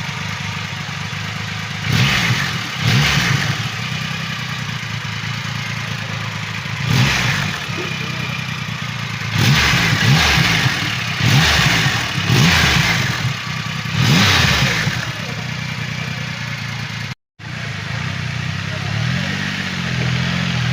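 Triumph Rocket 3 GT's 2.5-litre inline-three engine idling through its exhaust, with a series of short throttle blips that each rise sharply and fall back. Near the end the engine note climbs more slowly.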